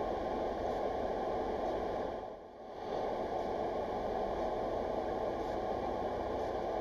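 Steady road noise of a moving car as picked up by a dashcam, a dull, even rush that dips briefly about two and a half seconds in.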